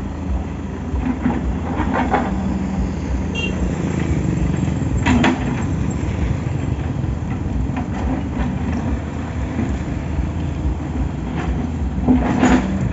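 Excavator's diesel engine running steadily while it works, with sharp metallic clanks and scrapes now and then, about four times.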